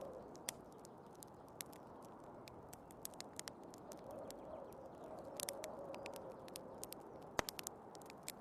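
Wood fire crackling with irregular sharp pops, one louder pop about seven seconds in, over the steady rush of snowstorm wind with a faint howl.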